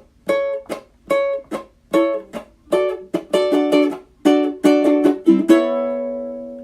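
Ukulele playing a run of short, rhythmic strummed chords, ending about five and a half seconds in on a held chord that rings out and fades.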